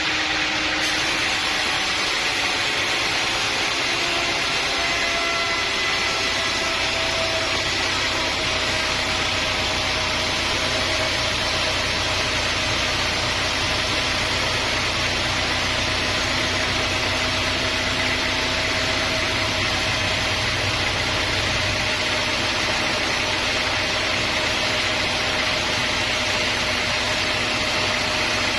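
Sawmill machinery running steadily: a continuous, even mechanical drone with a faint hum and no breaks.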